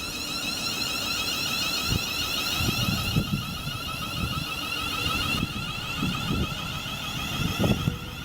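A train passing through a station, giving a high-pitched whine made of several steady tones with a sweeping, shimmering pattern, while gusts of wind buffet the microphone.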